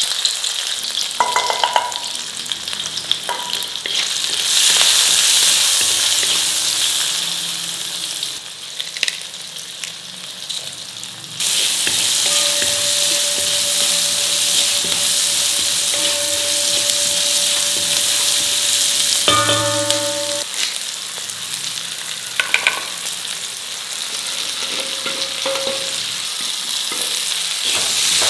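Food sizzling in hot oil in a pan while it is stirred. The sizzle gets suddenly louder twice, about 4 and 11 seconds in, and a metal utensil clinks with a short ring about two-thirds of the way through.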